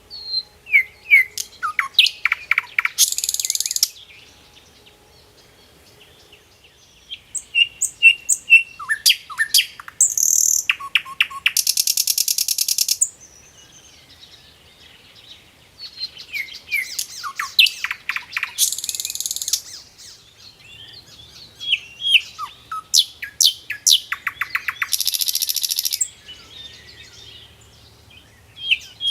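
A songbird singing in repeated phrases, each a quick run of downward-sweeping notes ending in a long buzzy trill. The phrases come about every five to six seconds, with short pauses between them.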